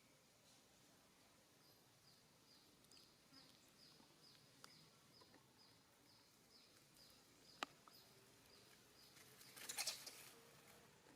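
Faint, repeated short high chirps, about two a second, falling slightly in pitch, typical of a small bird or insect calling. A single sharp click sounds about two-thirds of the way in, and a brief burst of crackling, like rustling leaves, comes near the end.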